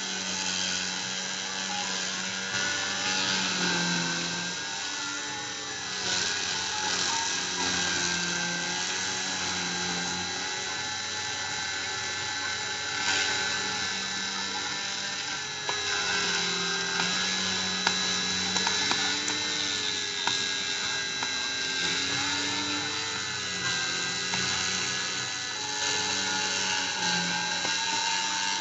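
Dremel rotary tool spinning steadily as a Cyclone PCB CNC mill routes a test pattern into acrylic, with the machine's stepper motors whining in pitches that shift up and down every second or two as the axes change speed and direction.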